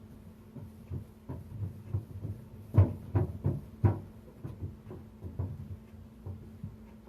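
Items and shelves knocked and shifted while cleaning a refrigerator: irregular soft thumps and knocks, the loudest a few strokes about three to four seconds in, over a steady low hum.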